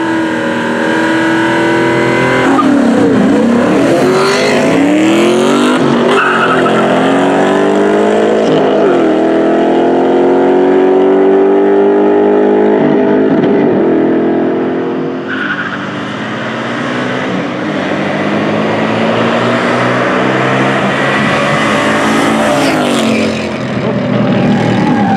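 High-performance street-race car engines accelerating hard, the pitch climbing and dropping through gear changes as cars run past, several times over.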